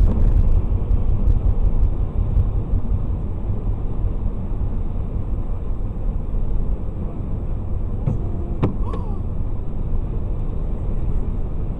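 Steady road and engine rumble of a moving car, picked up by a dashcam microphone. A couple of sharp knocks and a short wavering tone come about eight to nine seconds in.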